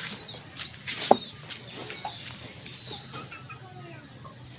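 Birds chirping in short, high, wavering calls repeated through the first three seconds, with one sharp knock about a second in; fainter lower bird calls follow as it quietens.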